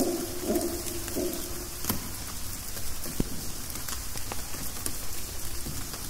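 Rain dripping through rainforest foliage: a steady hiss with scattered single drops tapping.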